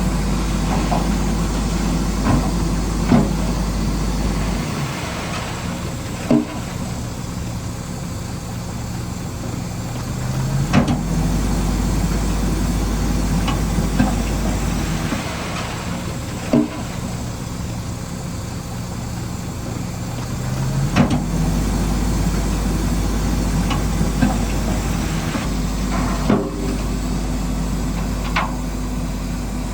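Radio-controlled bulldozer's motor and engine-sound effect running, the pitch stepping up in repeated rev cycles about every five seconds, with scattered sharp knocks of rock being pushed.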